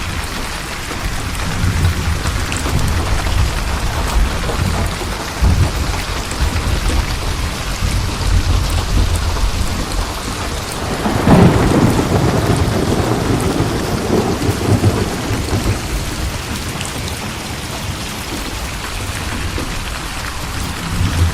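Steady heavy rain with rolling thunder. The rumble builds a couple of seconds in, and a loud clap comes about halfway through, then rolls away under the rain.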